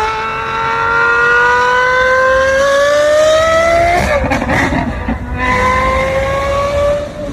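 Car engine at high revs, its pitch climbing steadily as it accelerates. About four seconds in the pitch drops sharply, as at an upshift, then climbs again.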